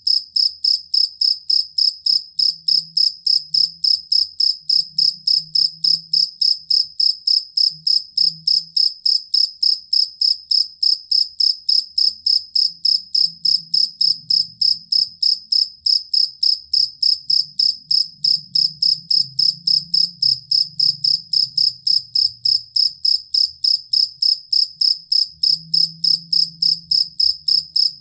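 Jangkrik kalung (field cricket) chirping in a steady, even rhythm, about three short high-pitched chirps a second.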